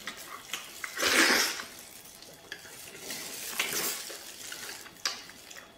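Wet chewing and sucking on a braised pork hock's soft skin and meat, in swells about a second in and again between about three and four seconds, with a few short smacking clicks in between.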